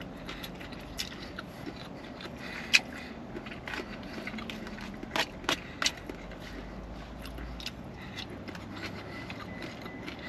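Close-miked eating sounds: a person chewing, with scattered sharp wet clicks and smacks, the loudest about three seconds in and a quick run of three between five and six seconds.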